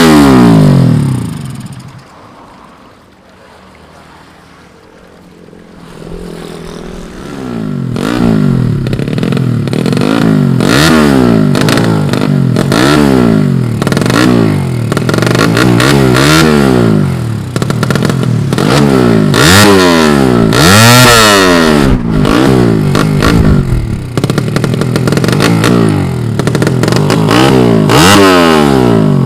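Tuned 115cc motorcycle engine revved hard: after the first rev drops away it idles quietly for a few seconds, then from about seven seconds in it is blipped over and over, the pitch rising and falling about once a second.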